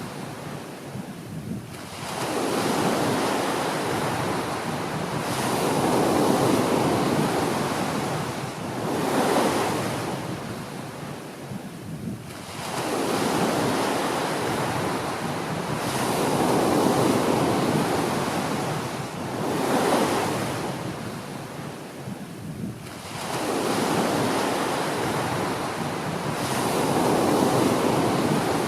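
Small ocean waves breaking and washing on a beach, the surf swelling and easing about every three to four seconds. A steady rush of wind runs underneath.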